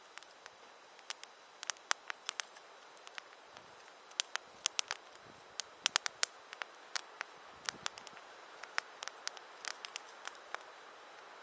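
Wood campfire crackling: irregular sharp pops and snaps, several a second at times, over a faint steady hiss.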